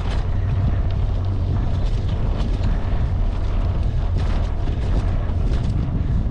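Wind buffeting the microphone of a camera on a moving bicycle, a steady low rumble, with a few faint ticks.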